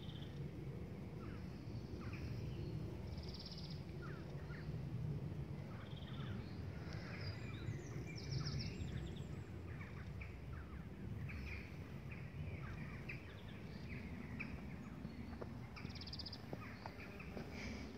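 Birds chirping and trilling on and off, over a low steady outdoor rumble.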